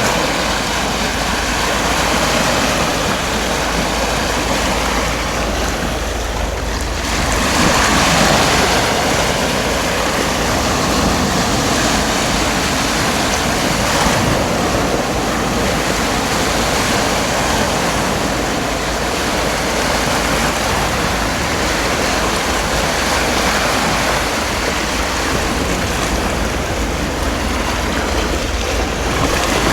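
Heavy downpour: a steady, loud rushing hiss of rain, swelling a little louder about seven seconds in.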